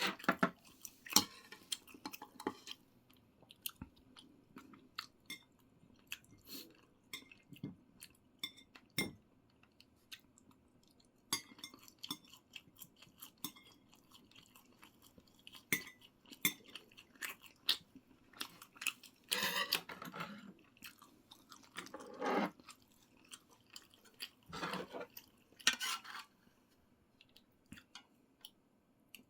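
A person chewing food close to the microphone, with scattered clicks of utensils against dishes and a few longer, louder mouth-noise stretches partway through.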